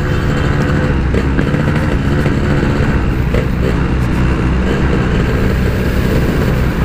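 Yamaha RX-King's single-cylinder two-stroke engine running at fairly steady revs while the bike is ridden.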